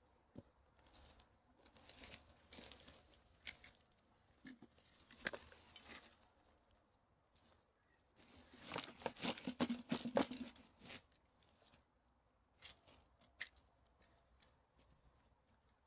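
Dry rustling and crackling of forest-floor debris and rubbish, in irregular spells, thickest a little past halfway.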